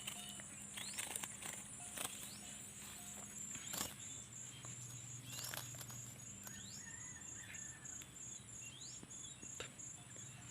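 Small birds giving short rising chirps every second or two over a steady, pulsing high-pitched insect trill, with a few sharp clicks.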